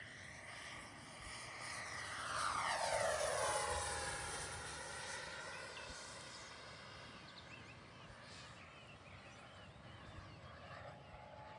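Whine of an RC F-18 model jet's twin 40 mm electric ducted fans as it flies past close by. It swells to its loudest about three seconds in, its pitch dropping sharply as it goes by, then fades to a softer drone.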